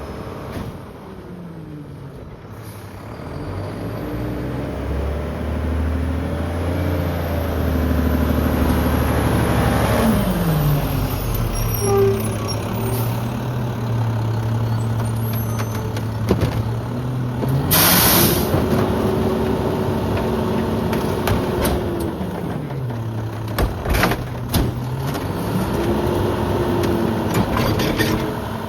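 Mack LEU garbage truck's diesel engine revving up and holding at high revs while the McNeilus rear loader's hydraulic packer compacts a heavy load, dropping back to idle briefly and revving up again near the end. A short, sharp hiss of air about two-thirds of the way through.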